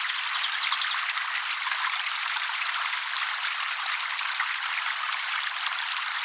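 A cililin's rapid, high-pitched chirping run, about eight notes a second, stops about a second in. After that only steady trickling water is heard.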